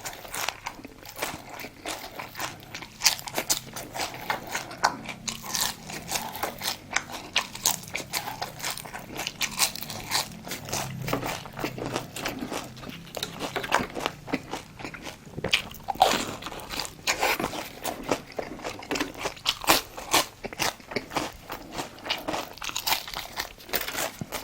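Crunching and chewing of food, a dense run of crisp crackles that goes on irregularly throughout.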